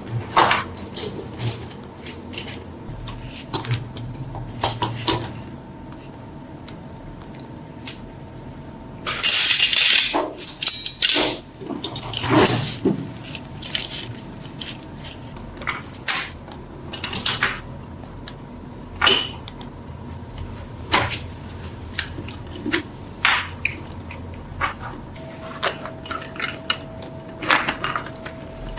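Small metal parts clinking and knocking as they are handled on a work surface, irregularly and in quick clusters, with a brief hiss about nine seconds in.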